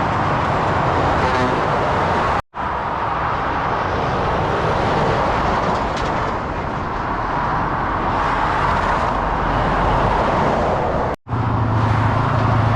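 Motorway traffic passing at speed, a steady roar of tyres and engines from lorries and cars. It drops out abruptly twice, and a deep engine hum comes in near the end.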